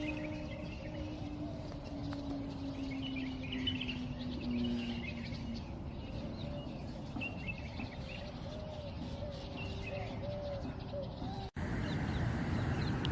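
Birds chirping and calling in park trees, with a low steady hum that slowly drops in pitch over the first few seconds. About a second and a half before the end the sound cuts out for an instant and switches to a steadier noise.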